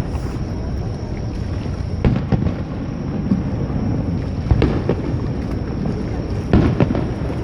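Fireworks bursting in a display, a continuous low rumble of rolling booms with sharper bangs coming in pairs about two, four and a half and six and a half seconds in.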